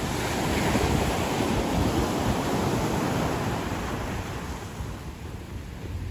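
Ocean surf washing up a beach: a wave swells in about half a second in and slowly fades over the next few seconds, with wind rumbling on the microphone underneath.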